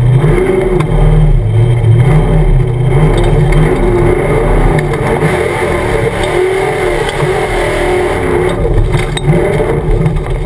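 Jeep engine revving hard under load on a steep muddy hill climb, its pitch rising and falling several times as the throttle is worked.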